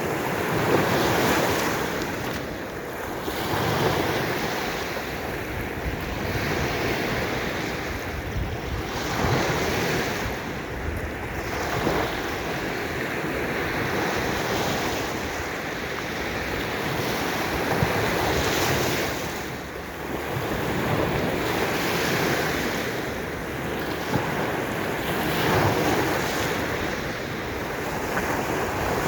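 Baltic Sea waves washing onto the shore, the surf swelling and easing every few seconds, with wind buffeting the microphone.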